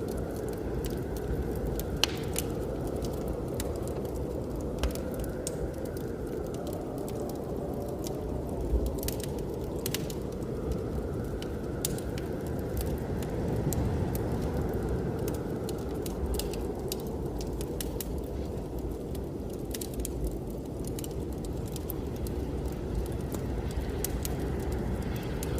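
A wood fire crackling in a fireplace, with frequent sharp pops and snaps, over the steady low rush of blizzard wind that swells and eases slowly.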